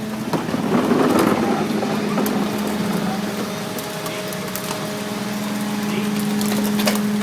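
Recycling truck running with a steady mechanical hum while its compactor crushes the load, with crackling and crunching strongest in the first couple of seconds.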